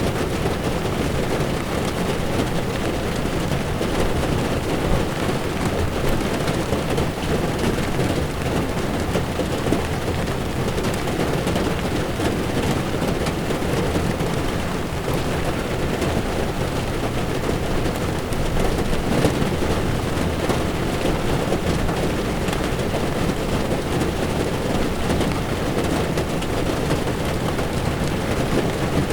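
Heavy rain falling on a moving car's windshield over the steady rumble of tyres on a wet road. A constant wash of sound with no breaks.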